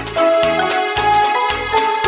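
Samsung SGH-J630 polyphonic ringtone playing: a synthesized melody over a steady drum beat and bass line.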